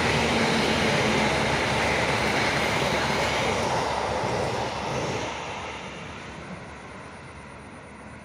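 Passing train running by and fading as it moves away, its noise dying off after about five seconds.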